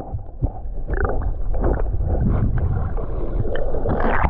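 Swimming-pool water sloshing and splashing close against a waterproof camera's microphone, with a heavy, muffled low rumble that rises and falls unevenly.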